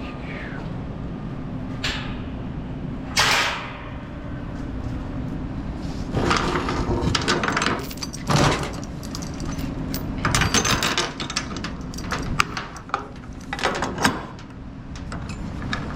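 Steel securement chains being handled on a flatbed trailer, clanking and rattling in several bouts with single sharp knocks between them, over a steady low hum.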